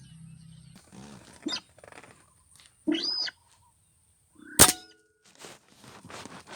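A short bird call about three seconds in, then a single sharp crack of an air rifle shot about a second and a half later, the loudest sound.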